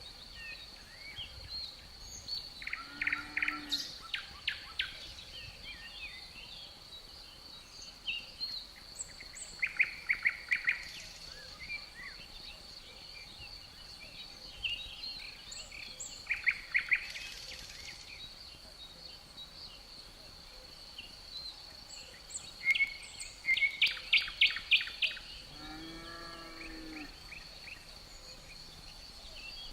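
Birds chirping in quick rattling bursts, four times over, against a steady high-pitched insect drone. A lower, slower call sounds briefly near the end.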